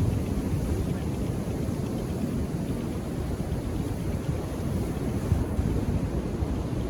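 Steady low rumble of Indian Ocean surf along the shore, with no single wave crash standing out, and wind buffeting the microphone.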